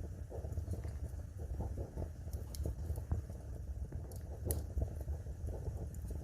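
Log fire crackling over a low, steady rumble of the flames, with a few sharper pops standing out.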